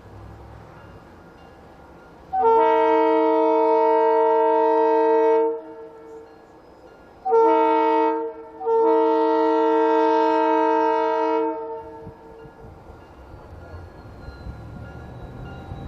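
Diesel freight locomotive's multi-chime air horn sounding a steady chord in three blasts: a long one, a short one, then another long one. A low rumble of the train runs underneath.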